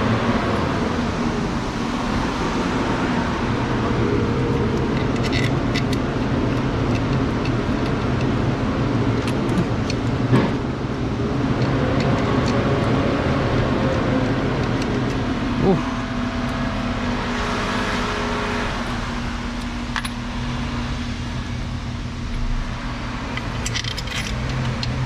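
Steady low machine hum with a few sharp metallic clinks of hand tools and bolts as a part is refitted to the engine.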